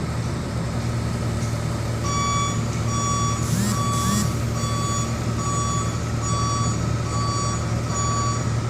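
A heavy machine's reversing alarm beeping steadily, about one and a half beeps a second, starting about two seconds in over the steady running of a diesel engine. Two short hisses come a few seconds in.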